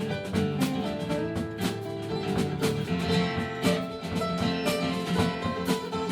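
Country band playing live without vocals: strummed acoustic guitar and sustained notes over a steady beat.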